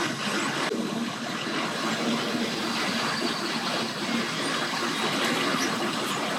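Steady rushing noise with a faint low engine hum underneath: boat-ramp ambience of idling boat and tow-vehicle engines and moving water.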